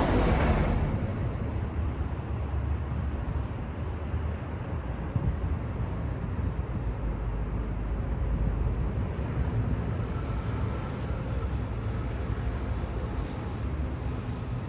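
City street traffic: a vehicle passing close at the start, fading within about a second, then a steady low rumble of traffic.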